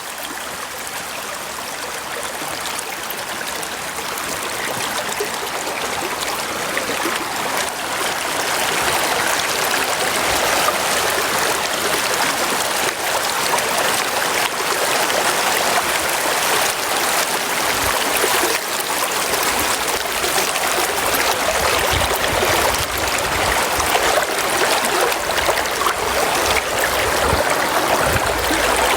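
River water rushing in a steady, even wash that grows gradually louder over the first several seconds, with a few low bumps in the second half.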